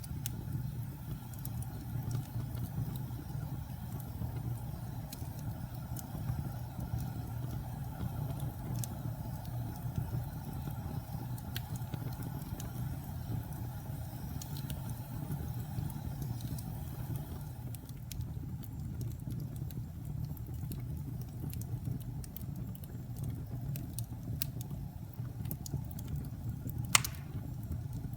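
Wood fire burning in a fireplace: a steady low rumble of flames with scattered crackles, and one louder pop near the end.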